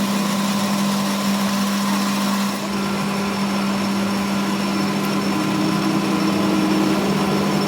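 A workshop machine running with a steady hum; the sound changes slightly about two and a half seconds in.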